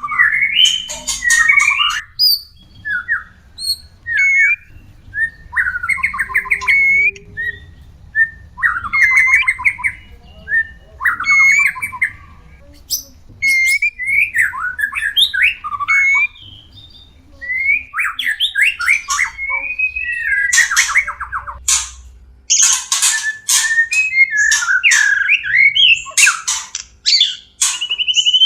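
White-rumped shamas (murai batu) giving harsh, rattling courtship calls mixed with short whistled notes, in irregular bursts. These are breeding-season mating calls, used as lure audio to bring caged shamas into breeding condition.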